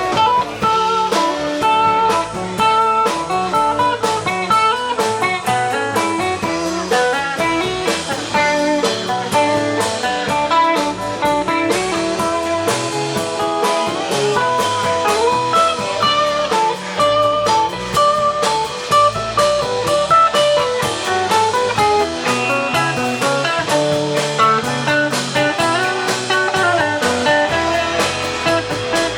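Live rock band playing an instrumental break: an electric guitar takes quick runs of single notes over strummed rhythm guitar, bass and a drum kit keeping a steady beat.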